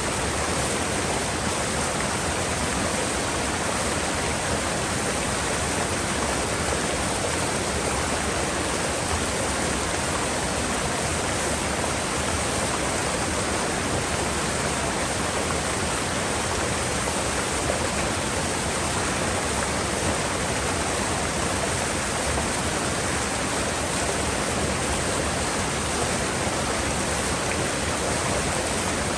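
Mountain river in a gorge rushing steadily, a constant even roar of water with no breaks.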